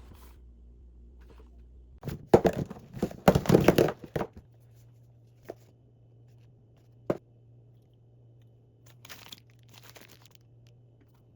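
Things being handled during decluttering: a loud burst of crinkling and rustling lasting about two seconds, then two sharp clicks a second and a half apart, then some faint rustling.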